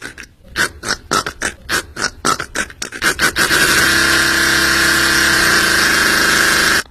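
A rapid run of short laugh-like pulses, about four a second, that turns about three and a half seconds in into a steady, harsh, hissing squeal, which cuts off suddenly at the end.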